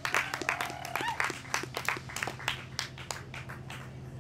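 Small audience clapping after a song, with a few voices in the crowd; the clapping thins out and dies away toward the end.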